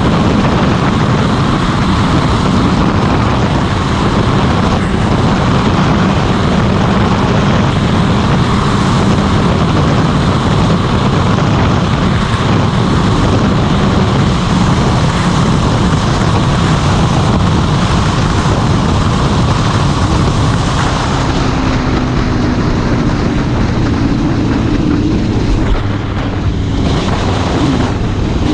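Motorcycle engine running at road speed under heavy wind noise on the microphone. About 21 seconds in the wind hiss eases and a steadier engine tone comes through.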